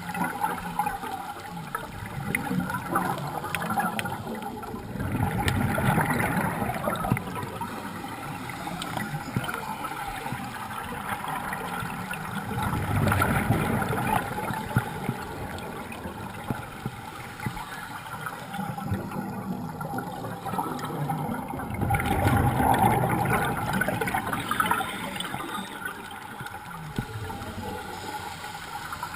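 Water gurgling and rushing, swelling louder three times, roughly every eight seconds.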